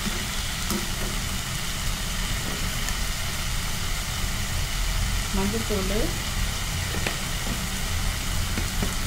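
Fenugreek greens sizzling steadily as they fry in a pan, cooking down in their own moisture with no water added. A metal slotted spoon stirs them at the start, with a few faint clicks against the pan.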